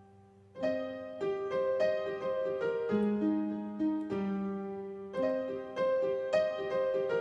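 Piano playing an instrumental passage of struck notes and chords, each ringing and fading, coming in about half a second in after a brief pause.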